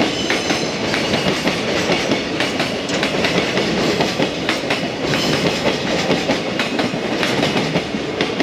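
Loaded container flatcars of a freight train rolling past, a steady rumble of steel wheels on rail with rapid clicking as the wheels run over the rail joints.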